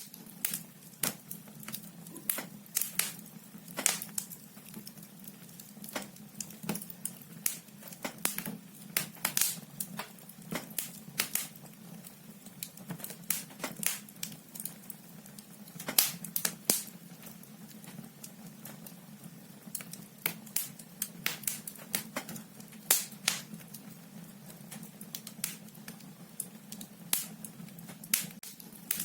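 Firewood burning in a fireplace, crackling and popping irregularly with many sharp snaps, over a steady low hum.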